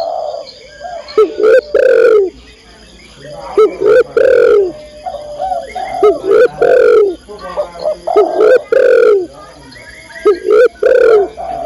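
Female spotted dove (tekukur) cooing: about five repeated coo phrases, each about a second long, with short pauses between. This is the female's call to a male.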